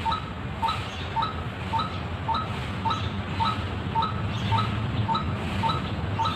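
White-breasted waterhen (ruak-ruak) call used as a bird lure, a short two-pitched note repeated evenly about twice a second, over a steady low hum.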